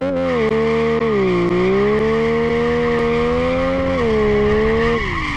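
Car engine revved hard and held at high revs over a steady hiss, its pitch sagging and climbing a little, then dropping away near the end as the revs fall.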